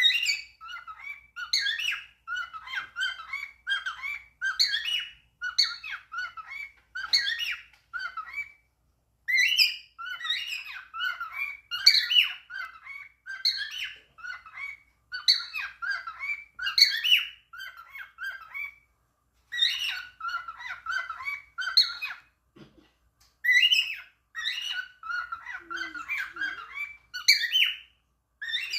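Cockatiel chattering in quick talk-like phrases of whistles and squawky notes, broken by a few short pauses.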